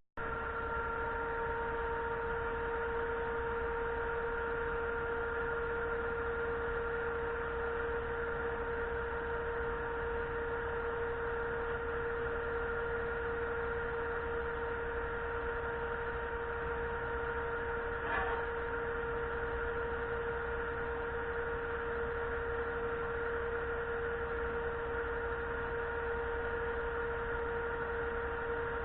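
A steady, unchanging machine hum with a whine on top and a low rumble under it, with one short knock about eighteen seconds in.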